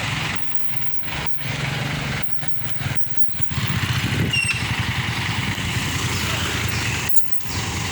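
Diesel engine of a Hino 500 truck running, louder from about three and a half seconds in. Several brief drops cut into the sound in the first half, and one more near the end.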